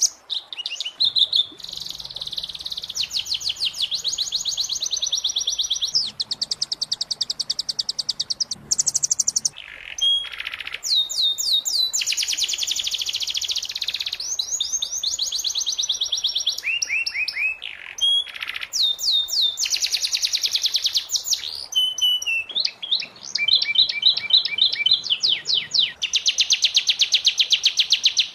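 Domestic canary singing a long, near-continuous song of fast trills and rolls, one phrase running into the next with brief gaps.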